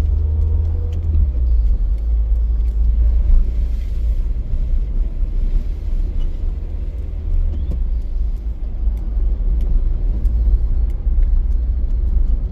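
Car running, with a steady low rumble heard from inside the cabin.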